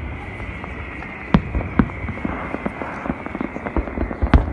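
Fireworks going off: many small crackles with a few sharper bangs about a second and a half in, and a quick cluster of bangs near the end, over a steady hiss.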